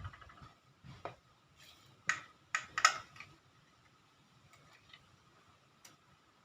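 Metal tools or parts clinking and knocking as they are handled: a handful of sharp clacks, the loudest about two to three seconds in, over a faint steady high tone.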